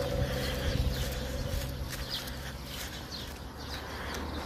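Birds chirping in short, high calls every so often, over a steady low hum that fades out about halfway through.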